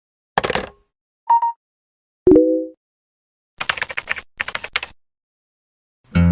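A string of short edited sound effects separated by dead silence: a burst of clicks, a brief high tone, a thud with a ringing tone, then two bursts of rapid clicking like typing on a keyboard. Guitar music starts right at the end.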